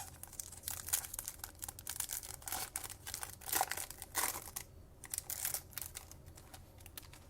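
Foil wrapper of a trading-card pack being torn open and crinkled, a dense run of sharp crackles for about six seconds, then only faint handling.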